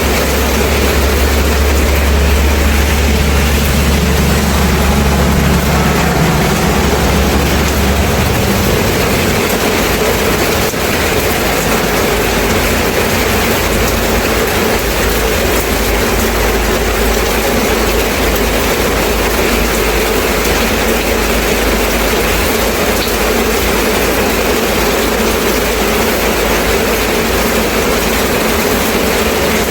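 Steady heavy rain. A deep, steady low rumble, like a heavy engine, runs under it and stops about eight seconds in.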